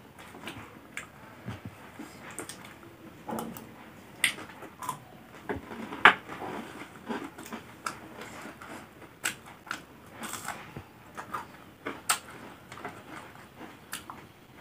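Eating sounds: irregular crunches and chewing of crisp fried fritters and salad, with the odd click of a spoon, the loudest crunch about six seconds in.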